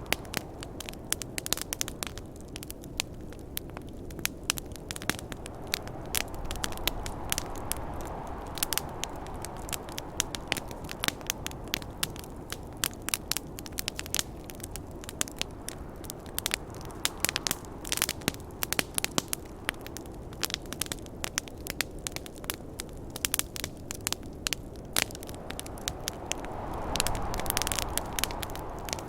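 Campfire crackling, with frequent sharp snaps throughout, over a steady rush of snowstorm wind that swells about a quarter of the way in and again near the end.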